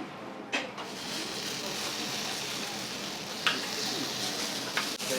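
Food sizzling on a flat iron griddle, a steady hiss that builds up about half a second in, with a few sharp clicks of metal spatulas on the plate.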